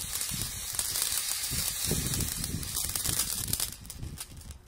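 A lit firework crackling and hissing with rapid small pops, dying away near the end.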